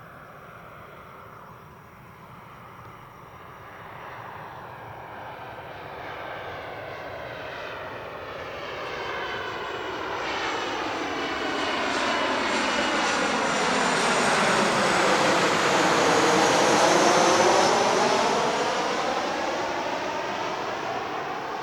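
Boeing 737-800 jet airliner on landing approach passing low overhead. Its CFM56 engines' roar swells steadily to a peak about three-quarters of the way through, then begins to fade, with a high fan whine and a sweeping, phasing change in tone as it goes by.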